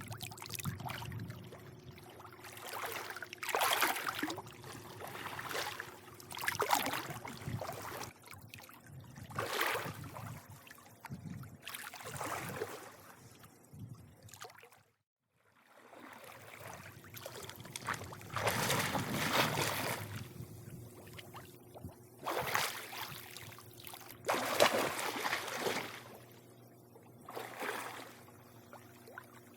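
Swimming-pool water lapping and sloshing in irregular surges every two to three seconds, over a faint steady hum. The sound cuts out to silence for about a second near the middle.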